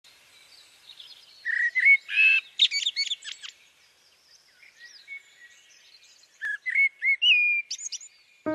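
Birds singing and calling: quick chirps and short whistled notes in two bursts, one from about a second and a half in and another near the end.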